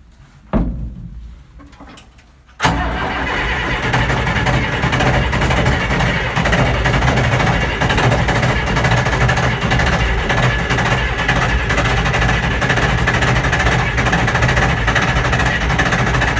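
John Deere 3130 tractor's diesel engine being cranked by the starter on a cold start, turning over steadily for about fourteen seconds without firing. A single thump comes about half a second in, and the cranking begins about three seconds in.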